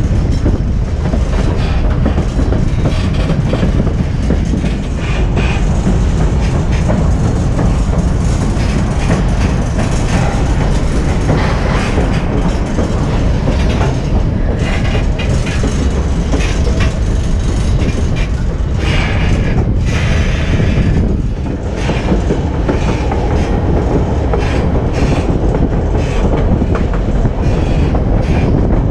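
White Pass & Yukon Route narrow-gauge passenger train running on the track: a steady low rumble of the wheels and cars, with irregular clicks and knocks over the rail.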